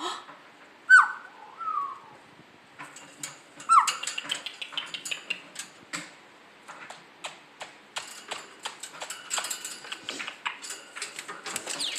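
Black-capped caique giving short whistled chirps that fall sharply in pitch, three or four times in the first few seconds, then a long run of quick clicks and ticks with soft chatter.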